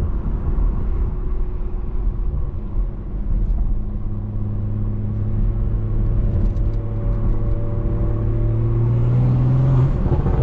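Straight-piped BMW 340i's turbocharged inline-six exhaust droning at a steady cruise, with constant low road rumble. Near the end the drone climbs slightly, then drops away.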